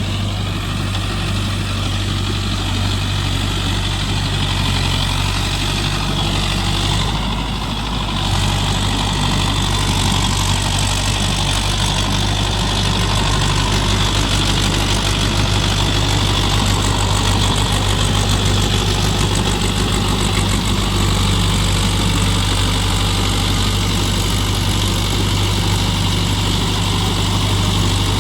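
Mahindra Yuvo Tech+ 585 DI 4WD tractor's diesel engine running steadily, with a brief dip about seven seconds in and a little louder after it.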